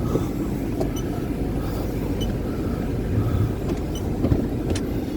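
Steady low rumble of a running vehicle, with a few faint clicks and knocks on top.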